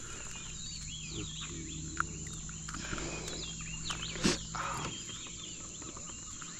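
Many birds chirping and chattering over a steady high insect buzz, with one sharp knock a little past the middle.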